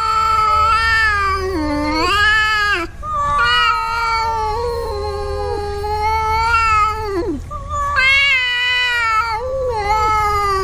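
Cat yowling in three long, drawn-out, wavering calls with short breaks between them, a hostile territorial warning at another cat.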